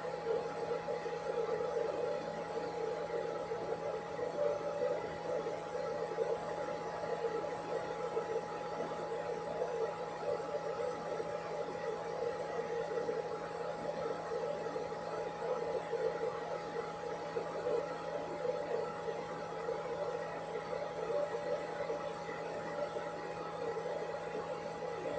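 Hair dryer running steadily, an even whir with a constant hum and no change in speed.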